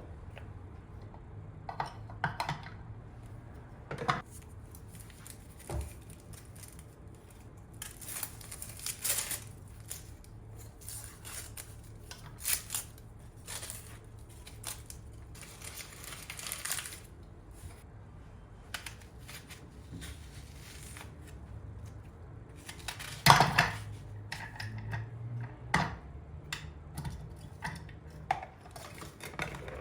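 Kitchen work sounds: scattered clicks and knocks of dishes and utensils, with short stretches of scraping or rustling and one sharp knock about 23 seconds in, over a low steady hum.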